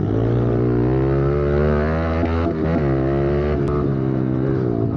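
Pit bike engine revving hard under throttle, its pitch climbing and dropping several times.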